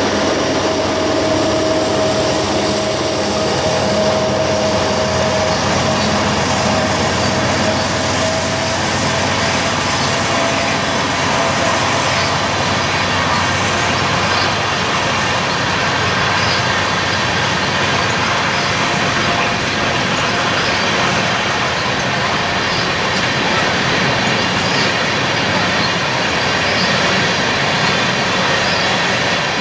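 A train passing close by: the steady, loud noise of its wheels rolling on the rails, with a faint tone that fades over the first several seconds.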